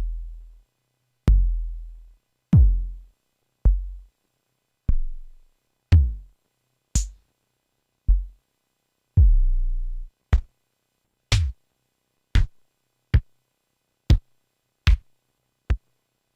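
MFB-501 Pro drum machine playing its stored samples one at a time: about fifteen single deep drum hits, each with a low decaying tail, roughly a second apart. After about ten seconds the hits come a little faster and are shorter and clickier.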